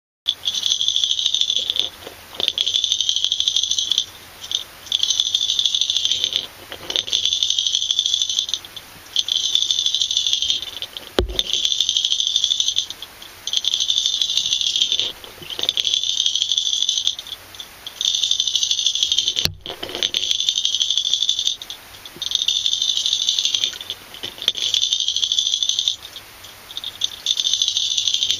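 Rattling heard underwater from a swimming fishing lure, in repeated bursts of about one and a half to two seconds with short breaks between them. There are two sharp clicks, about a third of the way in and past the middle.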